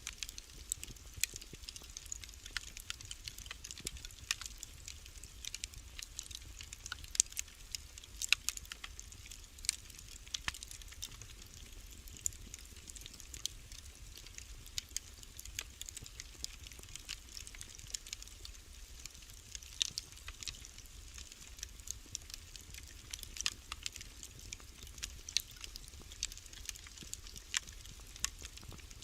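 Wood fire burning in a fireplace, crackling with many irregular sharp pops and snaps over a faint, steady low rumble.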